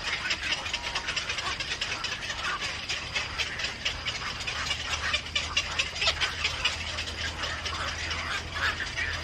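Small birds chirping in a rapid, continuous stream of short high calls, over a steady faint high-pitched tone and a low hum.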